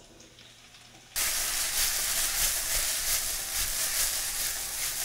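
Sliced bell peppers sizzling in a hot skillet as they hit the pan: a loud, steady hiss that starts suddenly about a second in.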